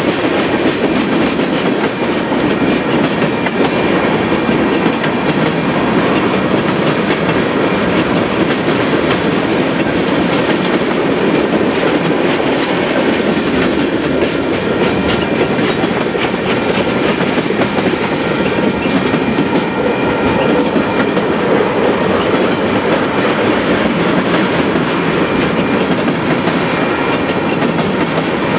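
Freight train's tank cars and covered hoppers rolling past: a steady, loud rumble of steel wheels on rail with a rapid run of clicks as the wheelsets pass over the rail.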